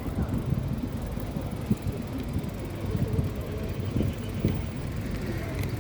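Low, uneven rumbling of wind and road noise on the microphone of a camera carried on a bicycle ride.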